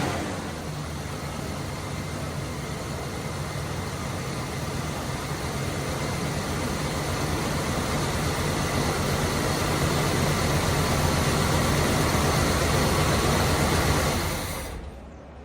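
1978 Chevy pickup's engine running steadily, freshly brought to life on a project truck, slowly growing louder and then falling away near the end.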